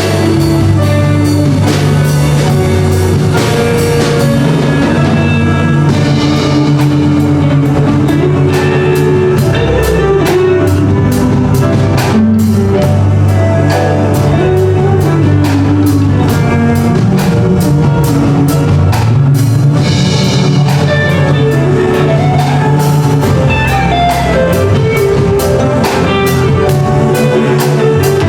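Band music played live, with a drum kit keeping a steady beat under guitar, bass and moving melody lines.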